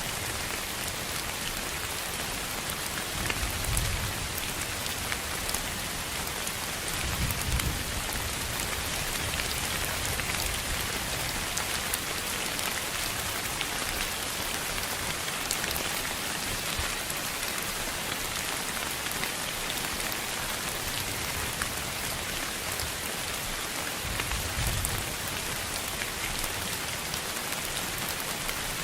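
Steady rain falling on a surface, an even hiss with scattered sharp drop ticks. There are three brief low rumbles: about four seconds in, around seven to eight seconds, and near twenty-five seconds.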